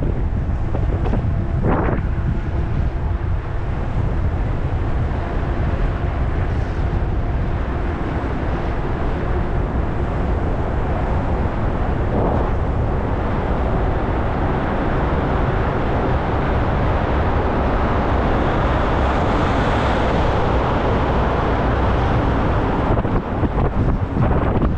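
Wind buffeting the microphone of a camera riding on a moving e-bike: a steady low rumble with road noise. A brighter hiss swells for a few seconds about three quarters of the way through.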